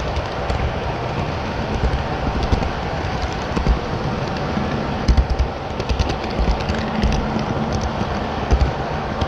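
HO scale model train running on layout track: a steady rumble with irregular clicks and low thumps, several of them stronger about 5 and 8.5 seconds in.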